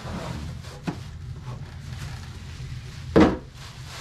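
Handling of loose plastic action figures and their box: a light tap about a second in and a loud knock a little after three seconds, over a steady low hum.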